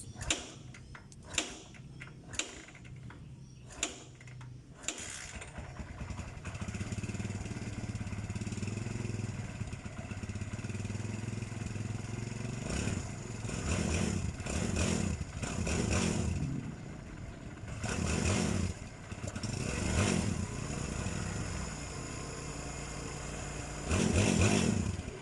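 Kawasaki Barako motorcycle's single-cylinder four-stroke engine, test-run after a tune-up and timing-chain tensioner reset. A few sharp clicks come first; the engine starts about five seconds in and idles, then is revved briefly several times, the last and loudest near the end.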